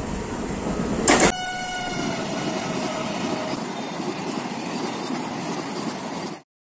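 Rumble of an approaching electric goods train, broken about a second in by a short loud burst. Then a passing train's running noise, with a horn tone that sinks slightly in pitch as it goes by. Everything cuts off abruptly near the end.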